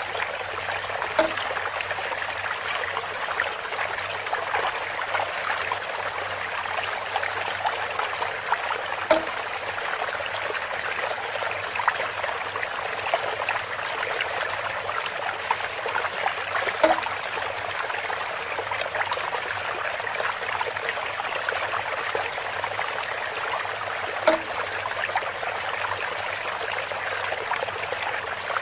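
Water trickling and splashing steadily from a bamboo water feature, with a brief pitched knock about every seven and a half seconds, four in all.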